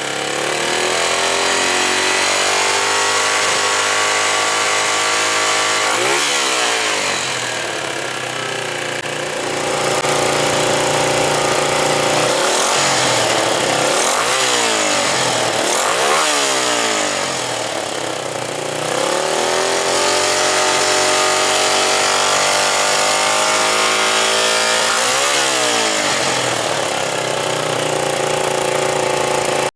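Suzuki Grasstracker's 250 cc air-cooled single-cylinder four-stroke engine running through an aftermarket muffler, revved repeatedly: held at raised speed, dropping and climbing again twice, with a run of quick throttle blips in the middle and one more near the end.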